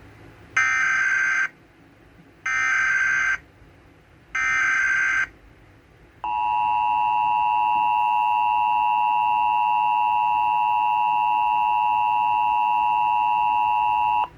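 Emergency Alert System tones: three roughly one-second warbling data bursts (the SAME header), then the steady two-tone attention signal lasting about eight seconds, which announces a tornado warning.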